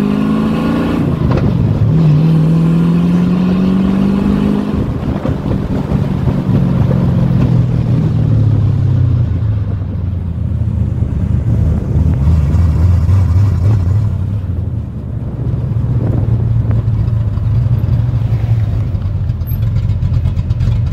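Ford Mustang engine accelerating through the gears. Its pitch rises, drops at an upshift about a second in, rises again and drops near five seconds, then settles into a steady cruise with road noise underneath.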